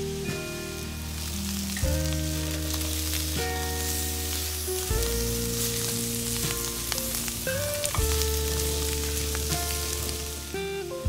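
Food sizzling in hot fat in a frying pan, the sizzle strongest in the middle, over background music of long held notes.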